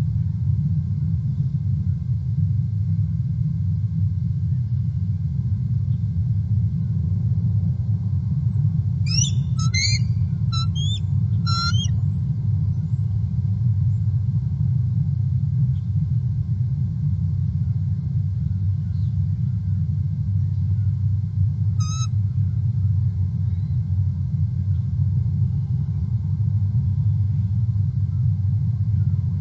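Steady low rumble on an outdoor nest-cam microphone, with a bird giving a quick run of high chirping notes about a third of the way in and one more short call later.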